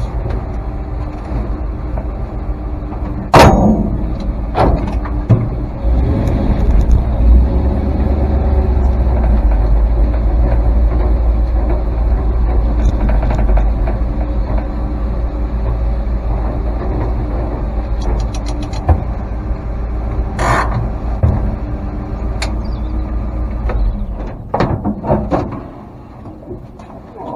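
Ford flathead V8 running in a truck as it is moved to be parked, with a sharp loud knock a few seconds in. The engine is shut off about 24 seconds in, followed by a few knocks.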